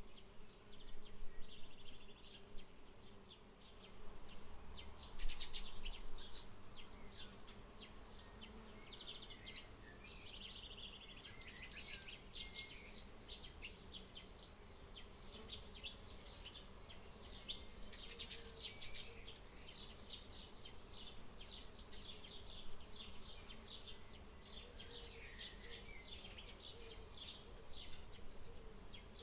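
Open-field ambience: many small birds chirping and twittering in quick runs of short high notes, busiest in the first half, over a faint steady hum.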